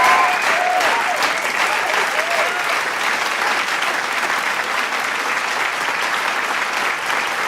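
Large crowd applauding and cheering, dense steady clapping with a few whoops and shouts in the first second or so.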